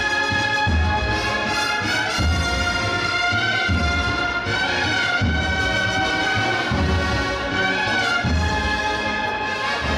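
A brass band playing a Holy Week procession march, with held brass chords over low drum beats that fall about every one and a half seconds.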